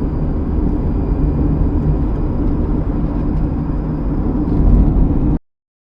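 Steady low road and engine noise of a car driving, as picked up by a dashcam, cutting off suddenly about five seconds in.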